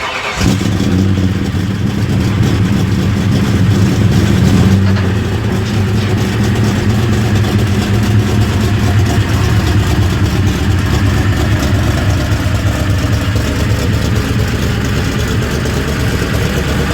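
1999 Ford Mustang GT's 4.6-litre two-valve V8, with Trick Flow heads, Comp Cams camshafts and Magnaflow exhaust, catching on the starter and then idling. The idle runs a little faster for the first few seconds and settles about five seconds in.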